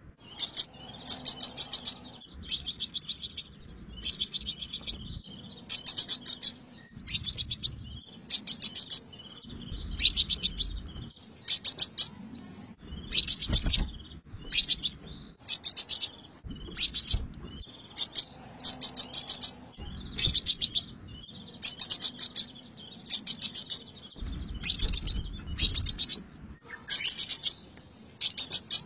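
Sunbird ('xác pháo' sunbird) song: short bursts of very rapid high chips and trills, roughly one burst a second, repeated without a break. It is a lure call for trapping.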